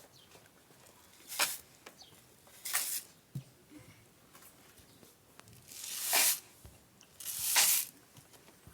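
Homemade rain sticks being tipped or shaken, giving four separate rushing cascades of pellets. The first two are short, and the last two, just past the middle and near the end, are longer and louder.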